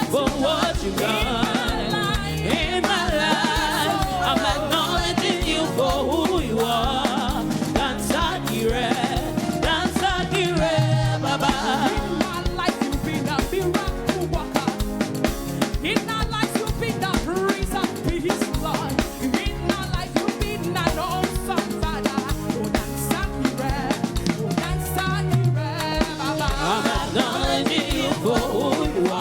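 Live gospel praise-and-worship music: voices singing a worship song over a band with drums and bass.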